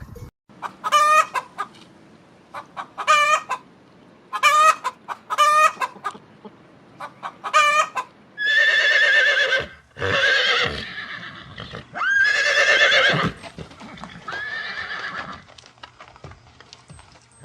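Chickens calling in short, quavering clucks. From about eight seconds in come four longer, louder quavering calls, which are horses whinnying.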